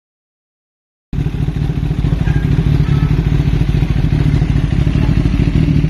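Silence for about the first second, then a Kawasaki ZX-10R's inline-four engine cuts in abruptly, running loud and steady through its exhaust.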